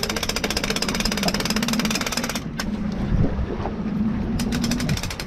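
A motor running with a fast, even pulsing and a steady low hum. The pulsing fades out about halfway through and comes back near the end.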